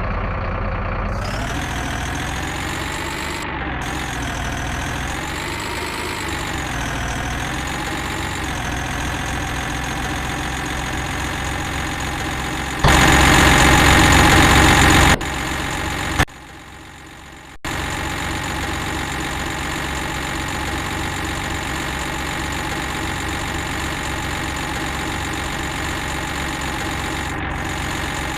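Heavy vehicle engine idling steadily, its pitch wavering for the first several seconds. About halfway in, a louder noisy rush lasts about two seconds, and shortly after, the sound drops low for a moment before the idling resumes.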